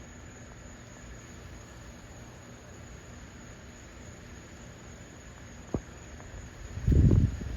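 Low, steady rumble of a distant Falcon 9 rocket launch, with a single click and then a loud gust of wind buffeting the phone microphone near the end.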